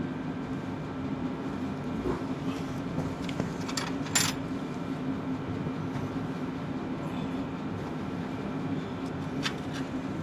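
Open-end wrench working a seized starter mounting bolt on a Ford 8N tractor: a few sharp metallic clinks, one about four seconds in and a couple near the end, over a steady low hum.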